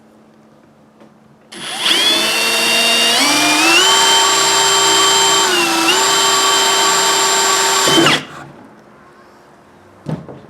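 Electric drill running for about six and a half seconds, drilling into the kayak's plastic hull: its whine climbs in pitch as it speeds up, sags briefly near the middle as the bit bites, then cuts off suddenly. A short knock follows near the end.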